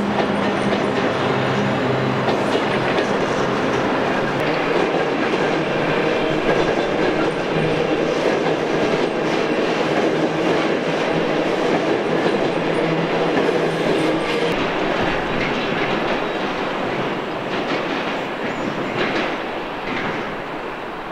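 Intermodal container wagons of a long freight train rolling past, a steady rumble with the wheels clicking over the rail joints. The sound fades in the last few seconds as the train draws away.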